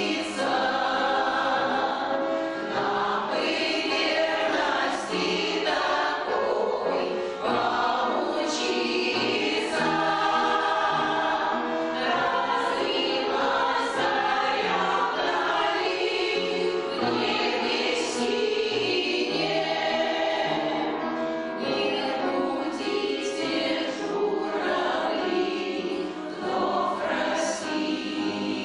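A veterans' amateur choir singing a song in chorus with instrumental accompaniment.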